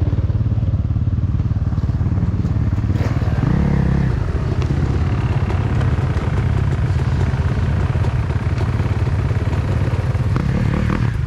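Dirt bike engine running steadily while riding a trail, with a brief rev about three and a half seconds in.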